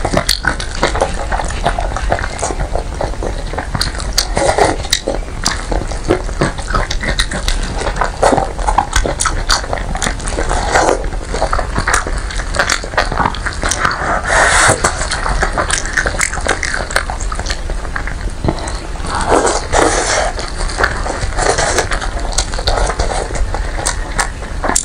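Close-miked eating of braised pig trotter: wet chewing and lip smacking full of sharp, irregular clicks, with louder squelching bursts every few seconds as the sticky skin and meat are bitten and pulled apart.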